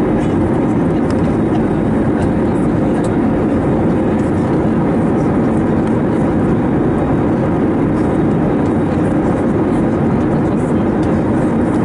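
Steady in-flight cabin noise of an Airbus A321neo: engine and airflow noise heard from inside the passenger cabin, even and unchanging.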